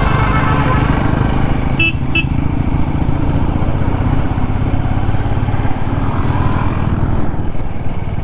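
Royal Enfield Classic 350's single-cylinder engine running steadily while riding, heard from on the bike. A vehicle horn gives two short toots about two seconds in.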